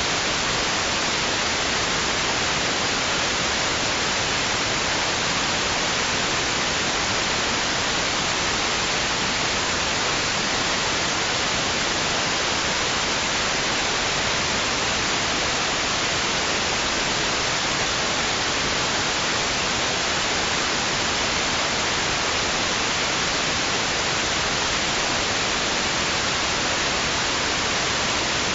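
White noise for lulling a baby: a steady, even hiss that does not rise or fall.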